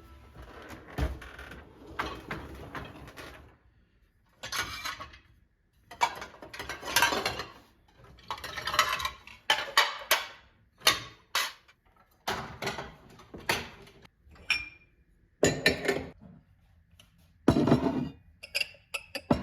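Irregular clatter, clinks and rustling of household objects being handled, in a string of short bursts and sharp clicks with brief pauses between them.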